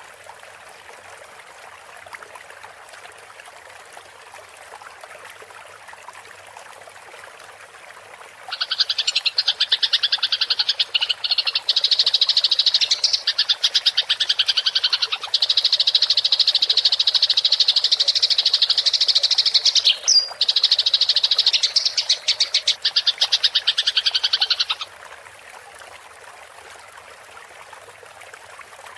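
Eurasian tree sparrows chattering in a fast, continuous fighting call with very rapid repeated notes. The call starts loud about eight seconds in, breaks off briefly near twenty seconds, and stops a few seconds before the end. Before and after it there is only a faint steady hiss.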